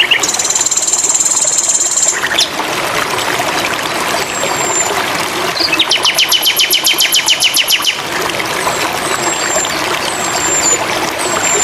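Sikatan londo (nightingale) singing. A high buzzy trill in the first two seconds is followed by a fast run of repeated notes, about ten a second, in the middle. Thin high falling whistles come between them, over a steady trickling-water background.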